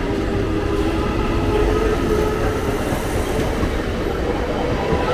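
ICF local train running past, a steady rumble of wheels on the rails with a faint whine above it.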